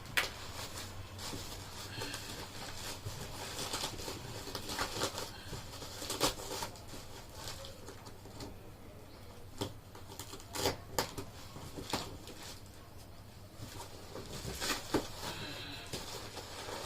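Handling noise from a boxed dumbbell set being unpacked: irregular clicks, taps and rustles of packaging, with a few sharper knocks about 6, 10 to 11, 12 and 15 seconds in.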